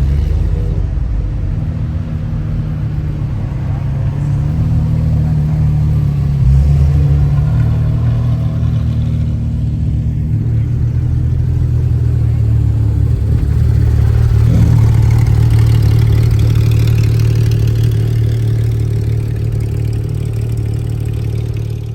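Car engines running at low speed as show cars drive past. The engine sound swells for several seconds about two-thirds of the way in.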